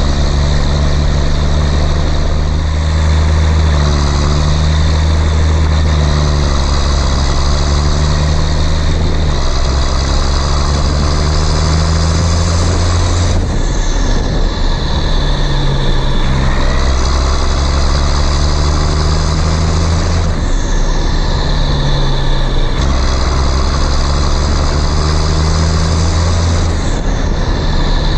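Tractor engine running steadily and loudly, with abrupt changes in its sound several times.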